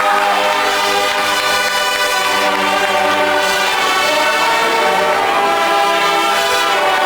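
Marching band brass playing a slow passage of held chords, the chords changing every second or two.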